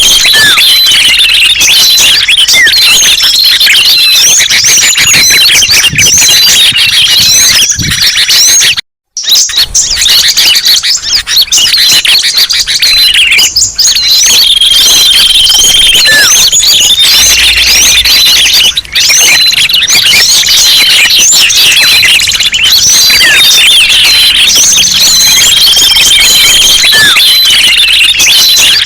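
Bird-lure recording of many small songbirds chirping and calling at once in a loud, busy chorus, with recurring whistled notes. The sound cuts out briefly about nine seconds in.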